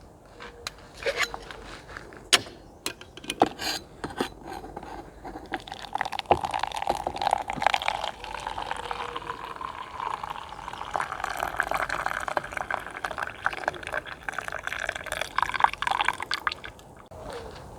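Handling clicks and knocks, then liquid poured steadily into a container for about ten seconds. The pitch of the pour rises as the container fills.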